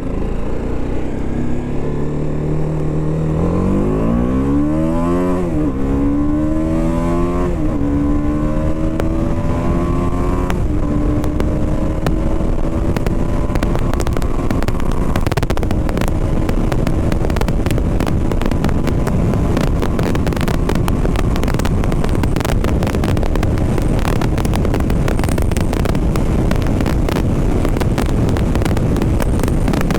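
BMW G 310 RR's single-cylinder engine accelerating hard through the gears: three rising climbs in pitch, each dropping at an upshift, over the first ten seconds or so. Then it settles to a steady cruise under a loud rush of wind on the microphone.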